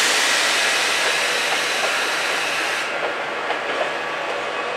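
SNCF ZTER (Z 21500) electric multiple unit moving slowly past the platform. A loud, steady hiss from the train starts suddenly and stops abruptly about three seconds in, leaving the rolling rumble with a few clicks.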